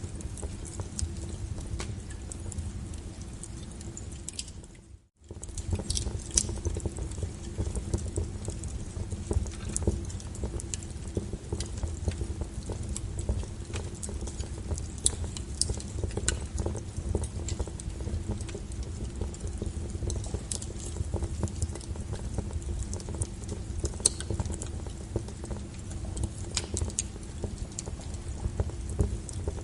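Wood fire crackling, with frequent irregular sharp pops and snaps over the low rumble of the burning logs. The sound dips and drops out for a split second about five seconds in, then comes straight back.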